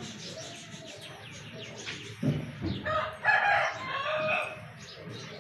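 A rooster crows once, about three seconds in, over the twittering of small birds; a dull thump comes just before the crow.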